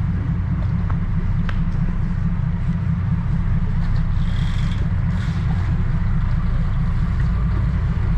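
Engines of a high-speed passenger boat running, a steady low drone, with a brief higher-pitched hiss about four seconds in.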